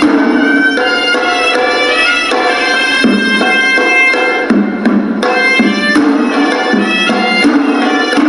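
Sri Lankan hewisi temple music: a horanewa, the shrill double-reed pipe, plays a melody that moves from note to note over a steady pattern of drum strokes.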